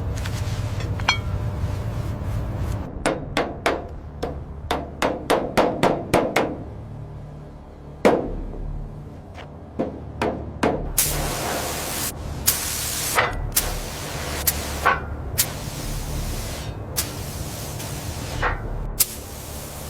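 Repeated sharp knocks in workshop restoration work: a quick run of about a dozen strikes, one hard strike about 8 seconds in, then slower, spaced strikes. From about halfway, a steady hiss runs under the strikes, with a low hum throughout.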